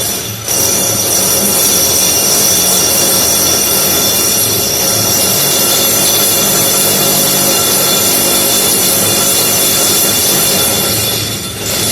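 Power drill boring into a masonry wall, giving a loud, steady, high-pitched grinding whine that eases off near the end.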